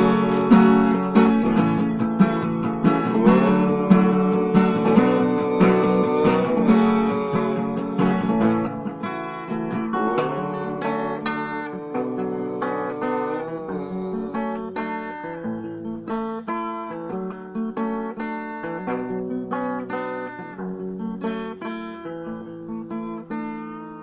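Instrumental acoustic guitar music closing a song, with picked and strummed notes and a few bent notes, growing gradually quieter toward the end.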